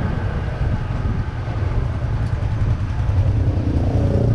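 Steady low rumble of a moving visitor tram, heard from on board: engine and rolling noise at an even pace.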